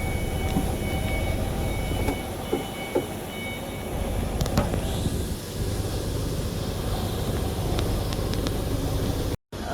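Steady low rumble of background noise with a few scattered light clicks and knocks; the sound drops out abruptly for a moment near the end.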